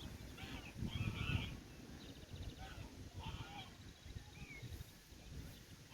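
Domestic fowl calling in short, scattered calls about once a second, with a brief trill about two seconds in, over a low rumble.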